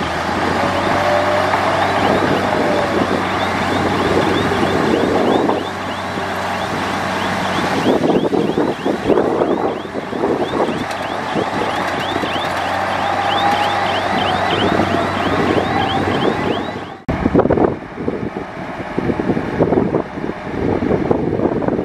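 Heavy diesel earthmoving machinery at work: a bulldozer's engine running steadily with clanking, and a rapid series of high squeals midway. About two-thirds of the way through the sound cuts off abruptly and resumes rougher, with wind buffeting the microphone.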